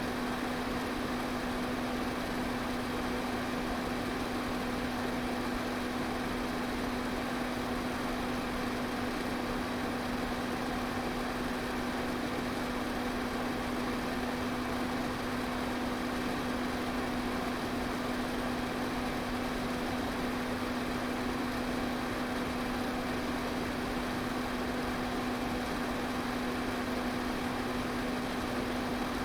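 Electric pedestal fan running steadily: an even rush of moving air over a constant low motor hum.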